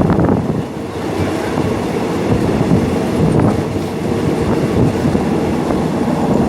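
Rapid Train 172, hauled by diesel locomotive QSY 5242, running on the rails: a steady low noise of wheels and carriages.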